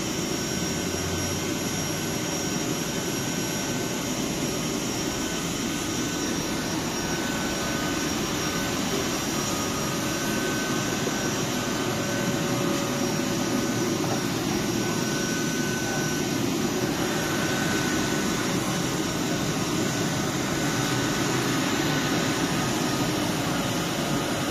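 Steady whooshing hum of a stationary ICE high-speed train's cooling fans and air conditioning, a little louder about halfway through.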